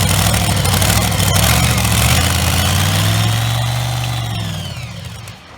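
Modified pulling tractor's engine running loud. It revs up and then winds back down with a high whine rising and falling, and fades out near the end.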